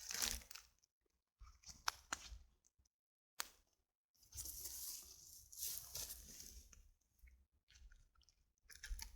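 Crunching and scraping of bark and wood as a log is turned over beside a freshly lit log fire, in several short spells with a few sharp clicks and knocks between pauses.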